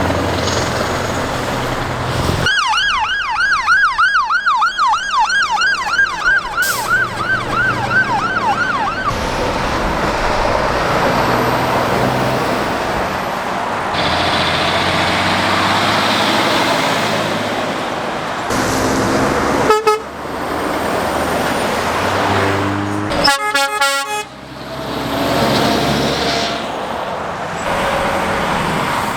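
Trucks and other road traffic passing on a main road. An emergency vehicle's siren yelps through the traffic for several seconds starting about two and a half seconds in, its tone sweeping up and down about three times a second before fading out.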